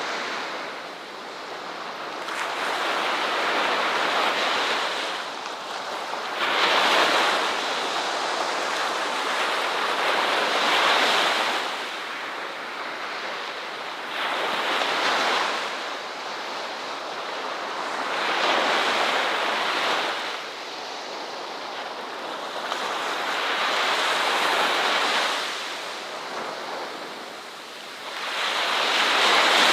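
Ocean waves breaking on a shore, the surf swelling and falling back every few seconds.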